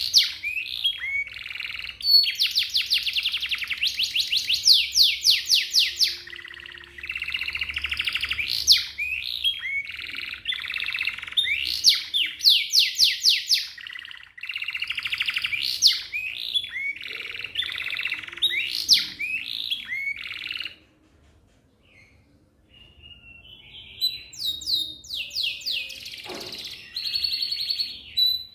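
Domestic canary singing a long, fast rolling song of rapid trills and chirps, phrase after phrase. It breaks off for about two seconds past the middle, then starts again.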